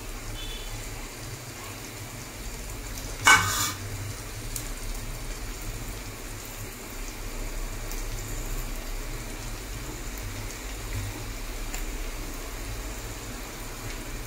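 Sliced onions and ground spices sizzling steadily in oil in an aluminium wok, with one sharp metallic clank about three seconds in.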